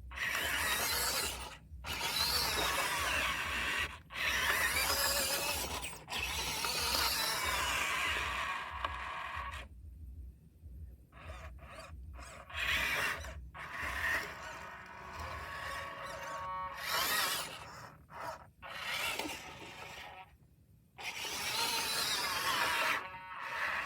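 Small electric motor and gearbox of a radio-controlled truck whirring in runs of a few seconds, stopping and starting with short pauses between.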